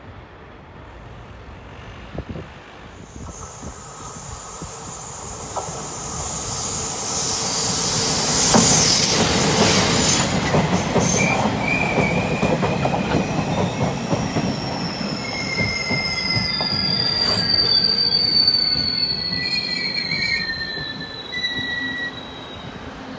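A Taiwan Railways train coming in, its running noise building to a peak. Then several high, squealing tones slowly fall in pitch as it slows, typical of brake and wheel squeal on a train drawing to a stop.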